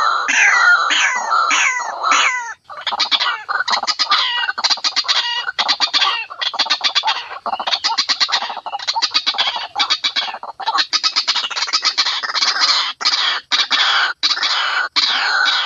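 White-breasted waterhen (ruak-ruak) calling loudly: a run of quickly repeated falling notes for the first couple of seconds, then fast rattling, chattering calls that go on with hardly a pause.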